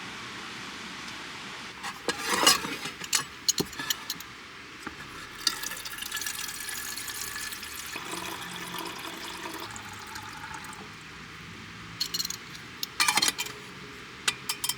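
Clinks and clatter of small hard objects being handled, with a stretch in the middle that sounds like water running or being poured, over a steady hiss of rain.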